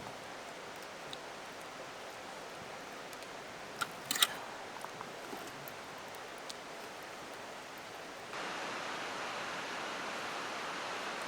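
Steady rushing outdoor noise, with a few sharp clicks about four seconds in; the noise grows a little louder about eight seconds in.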